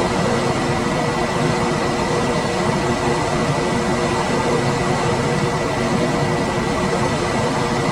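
Room air conditioner running steadily: an even rush of fan air with a faint hum and a thin, high steady whine.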